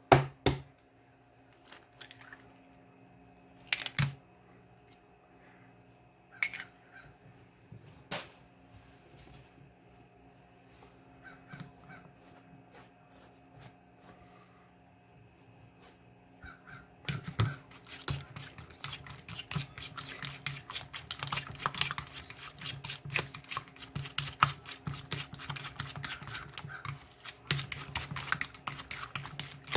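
Birds at a feeder close to the camera: a few separate knocks, then from about halfway dense rapid tapping and pecking clicks, over a steady faint electronic hum.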